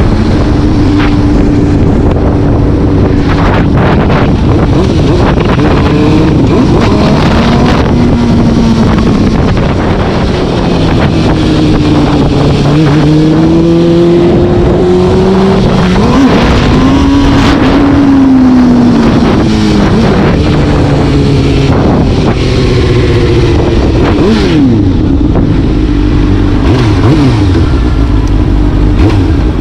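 Motor vehicle engine under way, its pitch climbing and dropping again several times as it accelerates and eases off, over a steady rush of road and wind noise.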